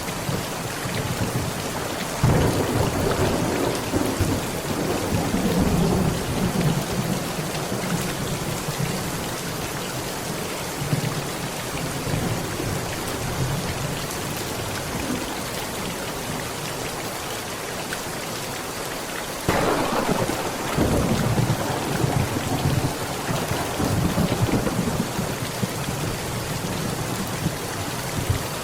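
Heavy rain falling steadily on a tent, with two rolls of thunder: one breaking suddenly about two seconds in and rumbling for several seconds, the other about twenty seconds in and rolling on for several seconds.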